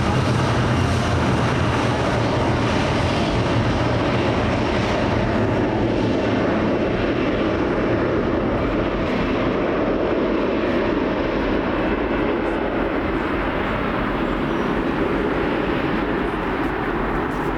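Boeing 737-300 jet engines (CFM56-3 turbofans) running with a steady, loud roar. The higher hiss fades from about six seconds in, while the low rumble carries on.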